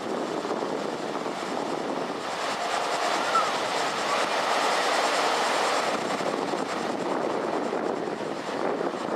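Typhoon-driven ocean surf: a continuous wash of breaking waves that swells louder around the middle.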